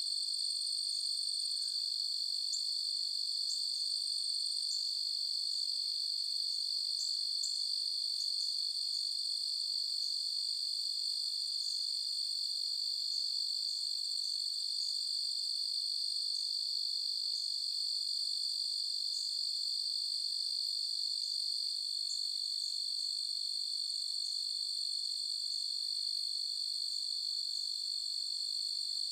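Night chorus of crickets trilling in a steady, unbroken high drone, with many brief higher chirps scattered over it.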